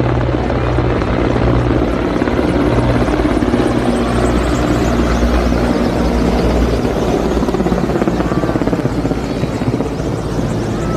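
Helicopter flying low overhead: a steady rotor chop and engine drone, with a high whine that falls in pitch a few seconds in as it passes.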